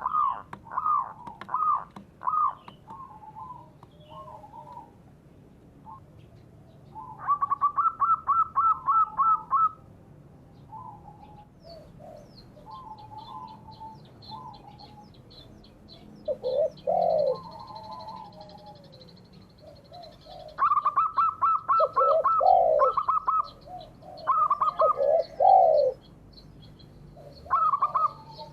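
Doves calling: perkutut (zebra dove) and derkuku (spotted dove). The calls are fast staccato trains of notes, mixed with deeper swooping coos that come several times, strongest about 8 s in and from about 21 s on. A small bird chirps faintly and high-pitched from the middle onward.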